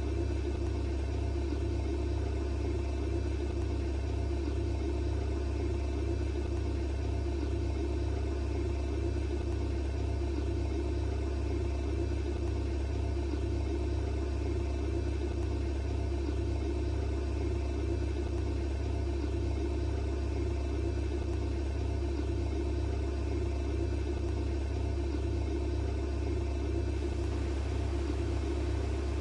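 Steady low hum inside a Boeing 787-8 cabin parked at the gate, before the engines are started.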